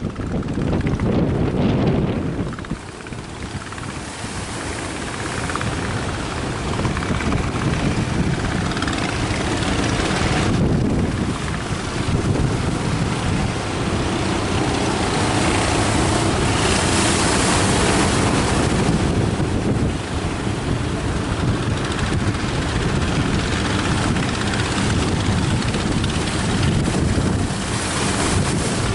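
Strong wind buffeting the microphone over the steady rush of surf, gusting and easing with a brief lull a few seconds in.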